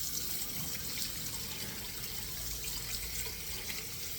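Floured chicken breasts frying in a pan of oil heated to its smoking point: a steady sizzle with light crackles.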